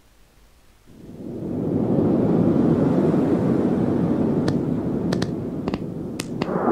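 Rain and thunder sound effect in a cartoon soundtrack: a low rumbling wash of noise fades in about a second in and holds steady, with a few sharp ticks in the second half.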